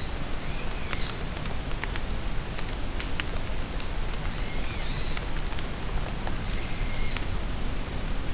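Steady rain falling in a forest, with scattered sharp drips, and a songbird giving short high phrases three times: in the first second, again about four seconds in, and near seven seconds.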